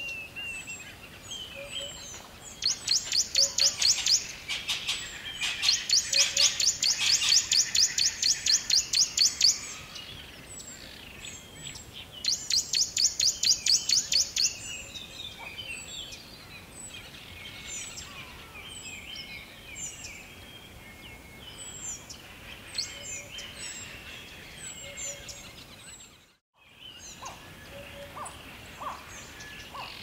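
Birdsong ambience: loud bursts of rapid, high trills lasting two to four seconds each, repeated several times in the first half, over many scattered short chirps. The sound drops out briefly about three-quarters of the way through.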